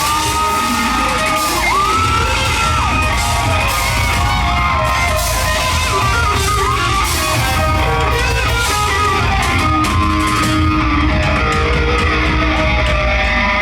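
Live rock band playing loudly: electric guitar lines with bent notes over bass and drums. The drums thin out near the end.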